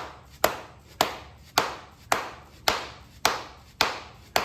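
Hammer striking a John Deere 318 mower deck spindle shaft, driving it out to remove the bearings. There are eight sharp blows at an even pace of about two a second, each ringing briefly.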